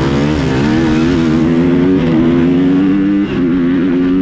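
A high-revving motorcycle-type engine accelerating hard under load. Its pitch climbs over the first second, then holds high, with a brief dip about three seconds in at a gear change.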